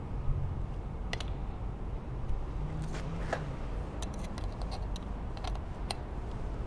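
Scattered light clicks and taps of hand tools on a road bicycle's metal parts while bolts are checked for tightness, one of which turns out to be loose.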